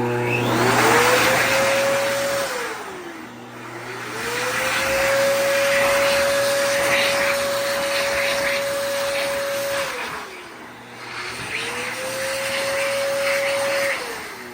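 World Dryer VERDEdri (Q-974A) hand dryer blowing, its motor whine rising as it spins up, holding steady, then falling away as it cuts out and restarts. It runs three times in a row, cutting out after about two seconds, again about ten seconds in, and near the end: stop-start running caused by a very faulty sensor.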